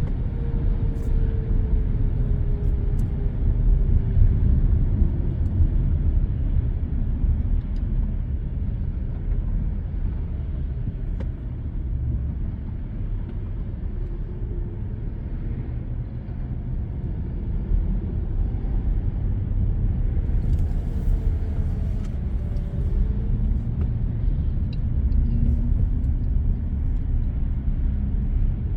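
Steady low road rumble of a car cruising on an expressway, heard from inside the cabin: tyre and engine noise, with faint tones that slide slowly down in pitch.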